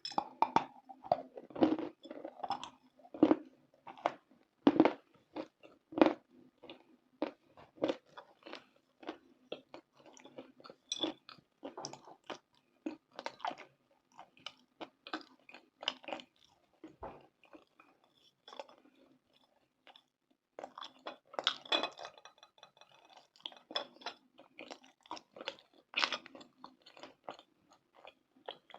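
Close-miked biting and chewing of dry, brittle chunks, rapid sharp crunches and crackles. The crunching is loudest early on, pauses briefly about two-thirds through, then comes back in a few loud bites.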